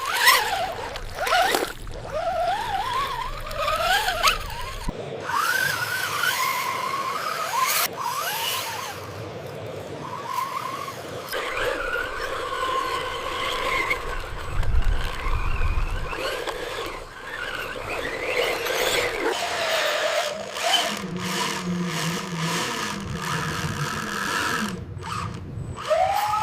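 Small electric motors and gearboxes of radio-controlled construction models whining, rising and falling in pitch as they speed up and slow down, over scraping and clicking from the models at work.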